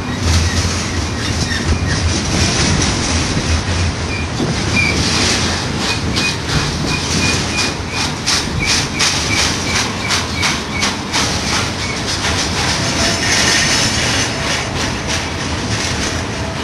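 BNSF intermodal container train rolling past on the Cajon Pass downgrade: a steady rumble of wheels on rail, with rapid clicking over rail joints in the middle and a thin, broken wheel squeal.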